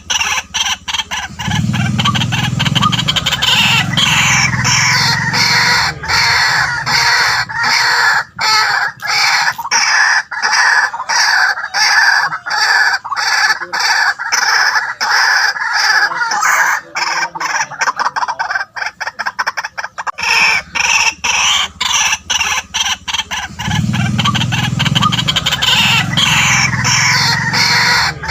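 White-breasted waterhens calling: a loud, continuous run of rapidly repeated calls, with a deeper, lower-pitched note joining in twice.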